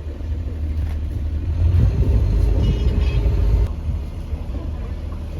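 Low rumble of a moving road vehicle, swelling louder for about two seconds in the middle.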